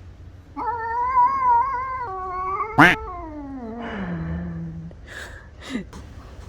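Domestic cat yowling: one long, wavering caterwaul that slides down in pitch into a low drawn-out note, with one short sharp sound partway through. It is the threat call of a cat facing an intruding cat.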